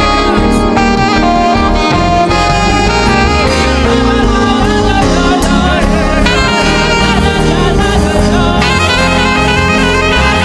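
Live gospel band playing, with a saxophone carrying a bending lead line over keyboard, drums and guitar.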